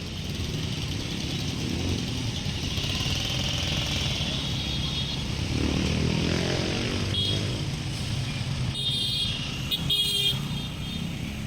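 Street traffic, mostly motorcycle engines running steadily, with short horn toots near the end.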